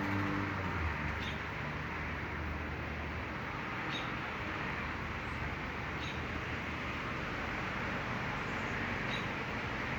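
A small bird chirping, a single short high note every two to three seconds, over a steady background hiss. A low vehicle hum fades out in the first second.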